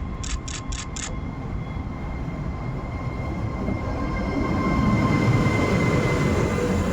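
Two coupled ETR104 electric multiple units approaching on the track. Their rumble swells steadily over the second half, over a steady high whine. Four quick clicks come in the first second.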